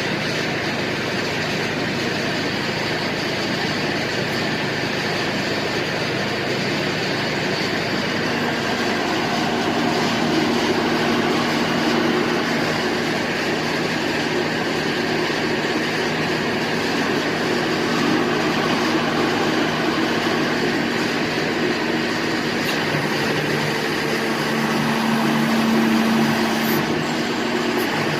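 Type 700 fully hydraulic drilling rig running steadily, its power unit and hydraulic power head giving a continuous mechanical drone with a low hum that swells slightly twice.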